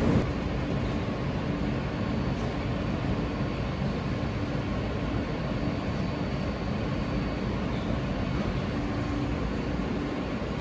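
New York City subway train heard from inside the car while running at a steady speed: an even rumble of wheels on the track with a constant low hum.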